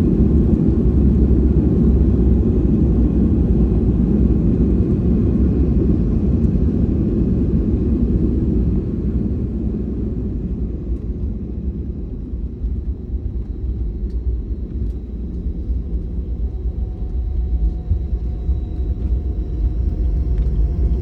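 Cabin noise inside a Boeing 737 rolling on the ground after landing: a steady low rumble of the engines and wheels that eases off about halfway through and builds again near the end.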